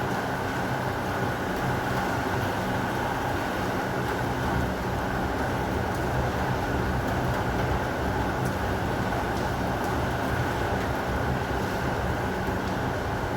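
Heavy rain falling steadily, a dense even hiss with a low rumble underneath and no distinct thunderclap.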